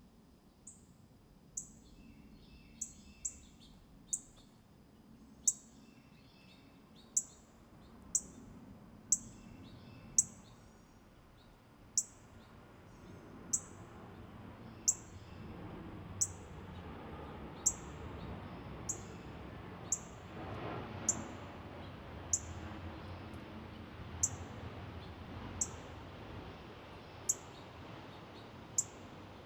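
A small songbird giving sharp, very high chip calls, each a quick downward sweep, repeated about once every second or so. During the first ten seconds there is softer twittering, and a low, steady background noise runs underneath.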